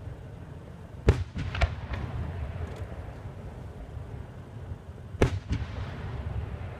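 Sharp bangs in two close pairs, one about a second in and the other about five seconds in, over a steady low rumble.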